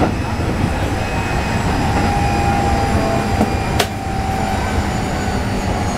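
Keikyu 1500 series electric train running, heard from inside the passenger car: a steady rumble of wheels on rail with the thin whine of its Mitsubishi IGBT-VVVF inverter and motors. A single sharp click about four seconds in.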